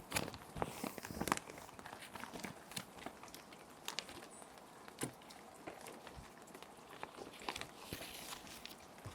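Plastic sheet protectors crinkling and crackling as paper sheets are handled and slid into them, a run of sharp crackles that is thickest in the first second and a half, over a steady hiss of rain.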